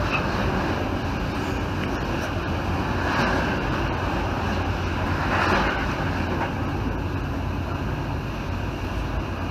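Steady rumble and rolling noise of a moving 1980s passenger train.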